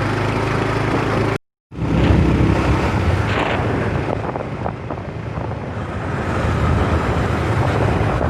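Motorcycle running on the road with wind and road noise on the microphone. The sound cuts out completely for a moment about a second and a half in, then returns rougher.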